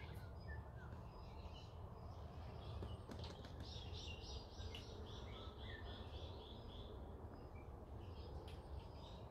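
Faint wild birds chirping, with one bird giving a run of quick, evenly repeated high notes lasting a few seconds in the middle, over a steady low background rumble.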